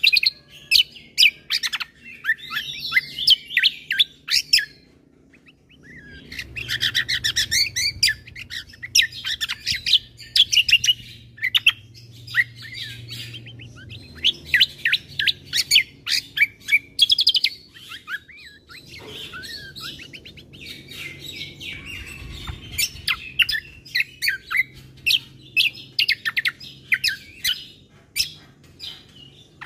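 Kecial kombo (cucak kombo) songbird singing a fast, varied song of sharp high chirps and trills, in long runs broken by a brief pause about five seconds in. A faint low hum runs underneath.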